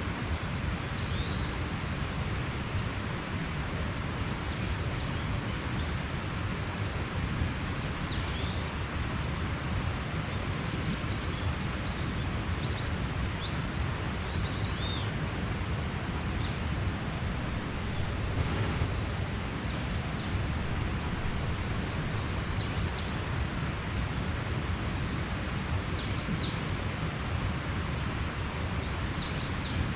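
A mountain stream running steadily, with small birds chirping now and then in short, high calls.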